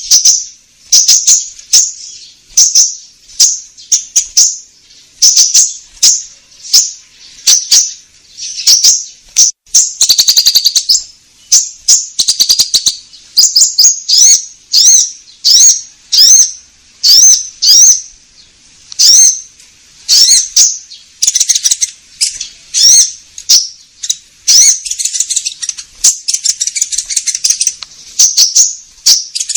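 Konin bird song played as a bird-trapping lure call: repeated sharp, high chirps, about one or two a second, with quick rising-and-falling notes.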